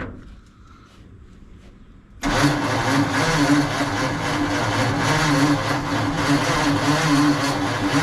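A click, then about two seconds in the 1948 Ford F5 truck's starter begins cranking the engine over steadily without it firing. The engine is being turned over on starting fluid after decades of sitting and is not catching.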